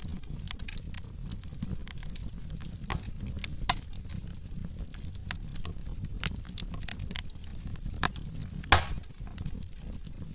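Logs burning in a fireplace, crackling with irregular sharp pops over a low, steady rumble of flame. The loudest pop comes near the end.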